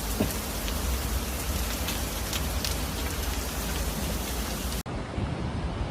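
Rain falling hard in a storm: a dense, steady hiss with a few separate drop hits. Near the end it cuts off abruptly to a duller rush of noise.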